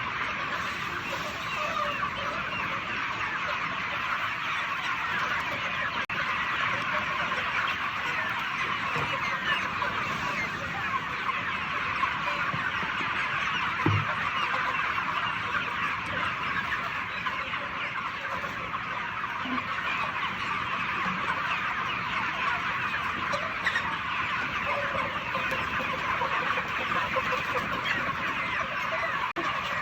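A large flock of FFG poultry chickens calling all at once: a steady, dense chorus of chirps and clucks.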